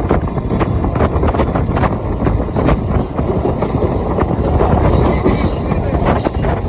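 Train running at speed on the rails, a loud steady rumble with the wheels clattering rapidly over rail joints, and a faint high squeal from the wheels about five seconds in.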